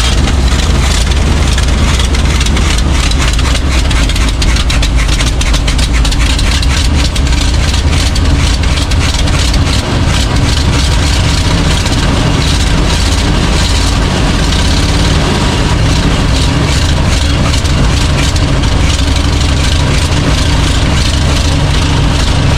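Chevrolet C60 wrecker's gasoline engine running loud and steady just after catching on gas poured down the carburetor, with a rough crackle over a deep rumble.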